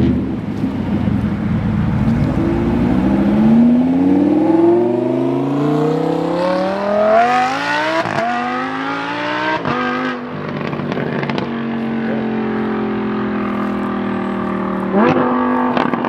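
A car engine accelerating hard, its pitch climbing steadily for several seconds, broken by a couple of sharp cuts about halfway through, then running at a steady, even pitch.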